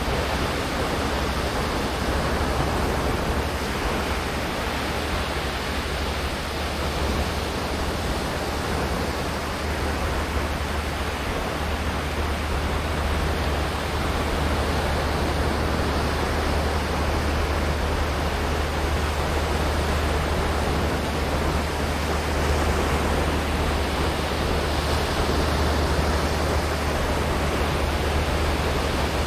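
Ocean surf washing onto the beach: a steady rush of waves with a strong, constant low rumble underneath.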